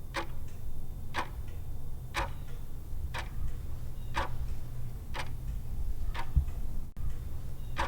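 Clock-ticking countdown sound effect, about one tick a second, over a steady low hum, timing the pause for answering a quiz question.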